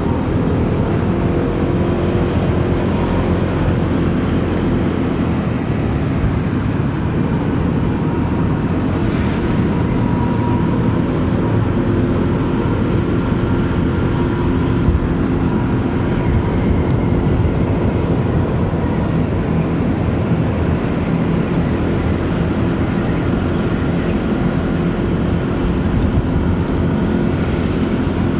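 Motorcycle engine running steadily while riding through city traffic, with road and wind noise and the sound of other vehicles around it.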